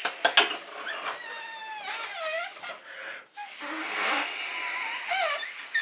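A toy balloon squealing in wavering, gliding tones as air escapes through its stretched neck and straw, in several stretches with short breaks.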